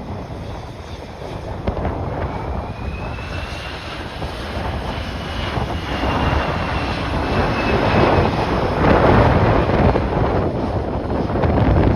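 Jet airliner passing, its engine whine rising then slowly falling in pitch as the noise grows louder, with strong gusty wind buffeting the microphone.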